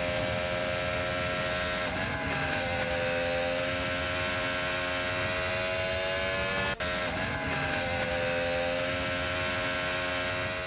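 Small LEGO WeDo 2.0 electric motor and plastic gears whining steadily as the race car model runs, the pitch sagging briefly about two seconds in and again about seven and a half seconds in.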